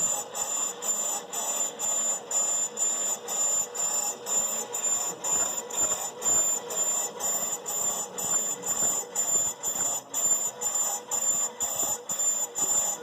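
Brake lathe machining a brake rotor, the cutting bit shrieking on the spinning rotor in a steady pulse about two and a half times a second.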